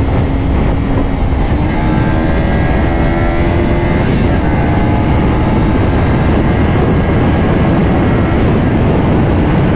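Kawasaki Ninja 500's parallel-twin engine running under way, its pitch climbing over the first few seconds and then holding steady, under heavy wind noise on the helmet microphone.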